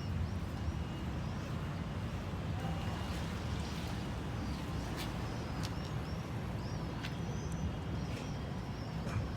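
Outdoor ambience: a steady low rumble with repeated short, high chirps and a couple of sharp clicks about five seconds in.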